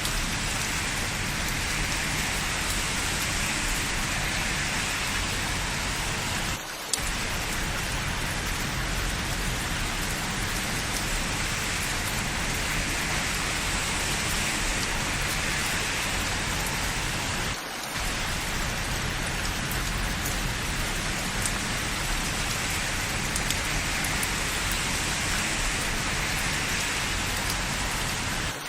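Steady, even rain falling on hard surfaces, with a brief drop in level twice, about eleven seconds apart.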